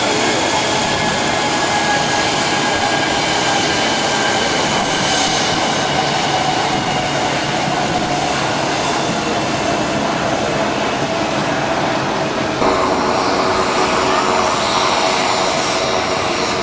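Airliner engines running steadily: a broad rush of noise with high, steady whining tones over it, changing abruptly once near the end.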